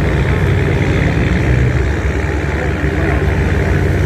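Tugboat's diesel engine running steadily under load as it tows barges against the current, a deep continuous hum.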